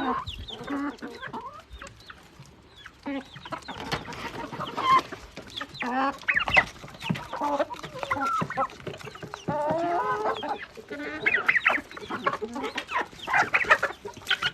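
A flock of backyard chickens clucking and calling, many short calls overlapping, as they are fed mealworm treats.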